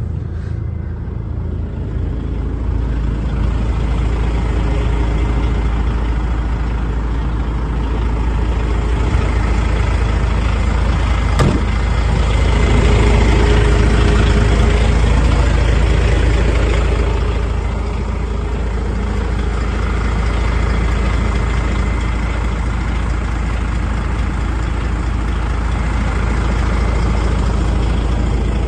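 DAF XF105.460 truck's 12.9-litre six-cylinder diesel engine running with a steady low rumble. It gets louder for several seconds in the middle, then settles back. A single sharp click comes about eleven seconds in.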